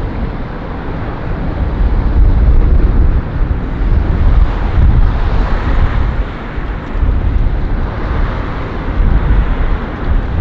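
Strong wind buffeting the microphone in gusts: a loud, low rumbling rush that swells and eases every second or two.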